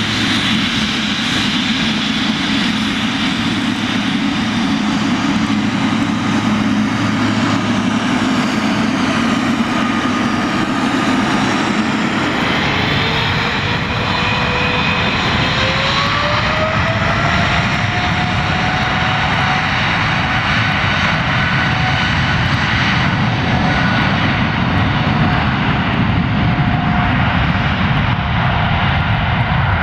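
Boeing 777-300ER's GE90 turbofans running steadily, then spooling up about twelve seconds in with a rising whine that levels off and holds: power being brought up toward take-off thrust. The high end fades near the end as the jet moves away.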